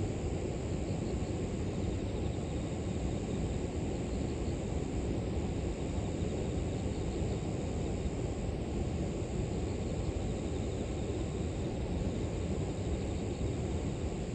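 Steady low rush of a flowing river, with a faint, high, continuous trill of insects above it.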